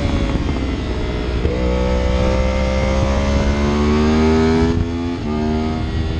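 Vehicle engine pulling hard through a gear. Its pitch jumps up about one and a half seconds in, climbs steadily, then drops sharply near the end at a gear change, over a steady low rumble of wind and road noise.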